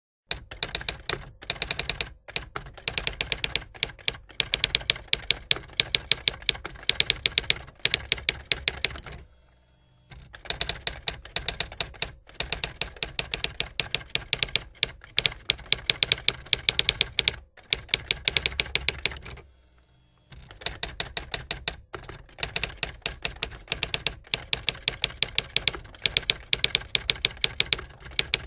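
Typing: fast runs of sharp keystroke clicks, many a second, broken by short pauses about 10 s and 20 s in.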